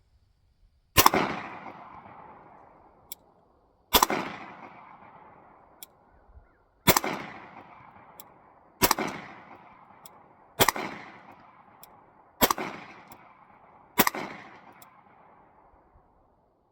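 Seven shots from a Gen 4 Glock 17 9mm pistol fired at a steady pace, one every two to three seconds, each sharp crack trailing off in a long echo across open land. These are sighting-in shots after the green dot sight was adjusted.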